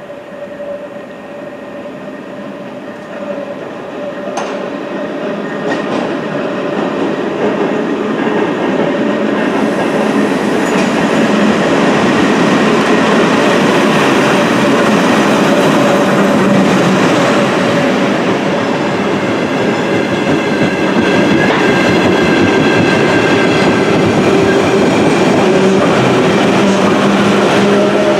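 A pair of London Underground battery-electric locomotives hauling an engineering train approach and pass on the track. A steady whine is heard first and the sound grows louder over the first dozen seconds. Then comes a steady, loud run of wheels on rail with clickety-clack and several steady motor tones.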